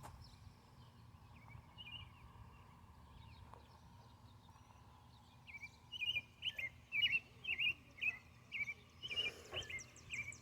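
A small songbird chirping, faint at first, then from about halfway through a steady run of short, downward-slurring chirps, two to three a second, over a faint low hum.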